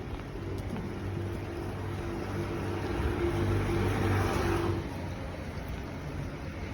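A motor vehicle passing during steady rain: its engine hum and hiss build to a peak about four seconds in, then fall away quickly.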